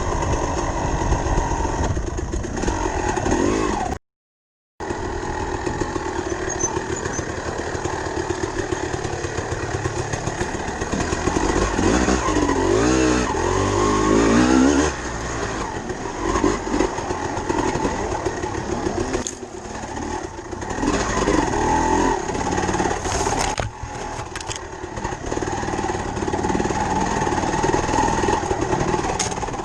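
Dirt bike engine running and revving as the bike is ridden, its pitch rising and falling with the throttle. The sound cuts out completely for under a second about four seconds in.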